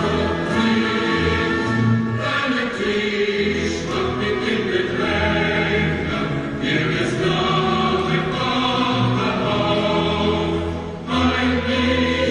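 Choral music: a choir singing slow, sustained chords that change every couple of seconds.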